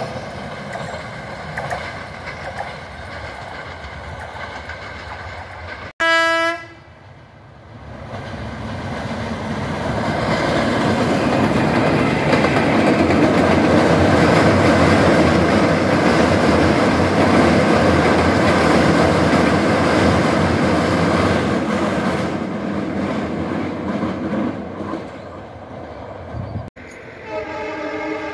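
Diesel-hauled passenger trains passing. Rolling noise from the coaches is followed by a short diesel locomotive horn blast about six seconds in. A loud, steady rumble builds as a train crosses a steel girder bridge. Another horn sounds near the end as a diesel locomotive approaches.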